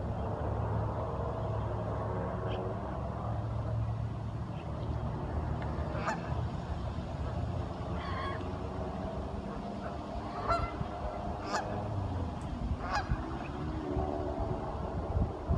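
Ducks calling in a run of repeated nasal calls, with several sharper short calls in the middle stretch, over a steady low rumble.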